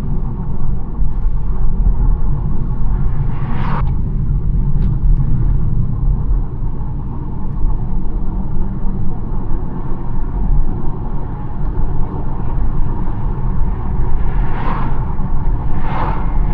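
BMW 1 Series car driving along a road: a steady low rumble of engine and tyre noise. Brief whooshing swells of noise rise and fade once about four seconds in and three times near the end.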